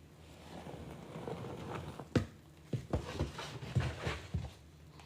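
A wet, sudsy sponge squeezed by hand: a soft squishing with a few sharp squelches from about two seconds in, as the rinse water pours out.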